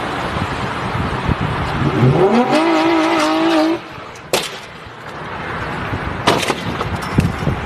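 Car road noise with a long wavering pitched tone from about two seconds in that stops suddenly, then a sharp knock and two more short hits later on.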